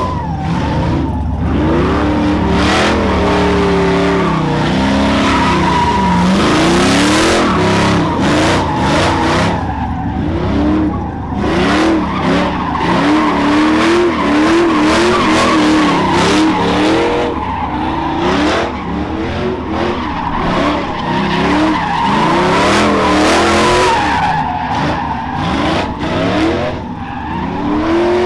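A truck doing a burnout: its engine revving up and down at high revs while the tyres squeal and skid.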